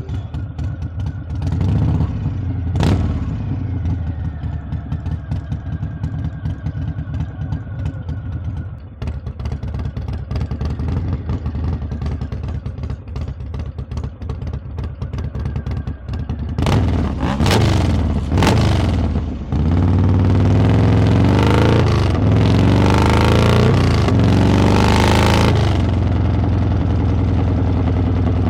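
Harley-Davidson V-twin exhaust under way, a pulsing low rumble at modest revs. Around 17–18 s come a couple of quick throttle blips. From about 19.5 s the engine revs hard, pitch climbing and dropping through the gears, before it settles to a steadier, lower note near the end.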